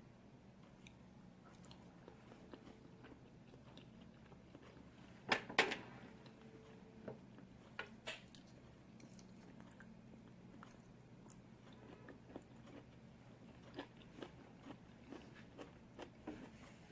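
A person eating snow crab legs: quiet chewing with scattered sharp clicks and cracks, the loudest a close pair about five seconds in.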